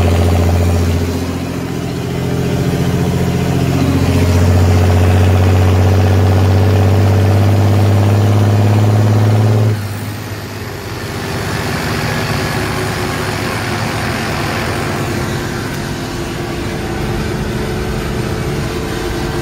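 Lamborghini 1706 tractor's turbocharged diesel engine running with an open exhaust pipe, a steady pitched drone that sags briefly about two seconds in. About halfway through the drone drops away suddenly, leaving a quieter, rougher hissing run from the open turbo pipe.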